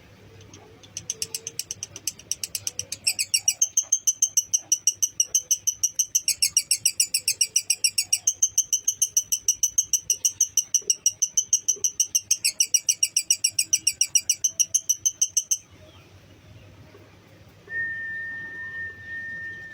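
Lovebird 'ngekek': a long, loud, rapid chattering trill at about six pulses a second, going on for nearly fifteen seconds and cutting off abruptly. Near the end comes one steady, high whistled note.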